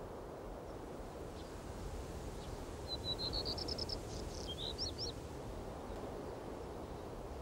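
A small bird sings one short phrase of quick, high chirping notes that rise in pitch, starting about three seconds in and lasting about two seconds, over a steady low outdoor background noise.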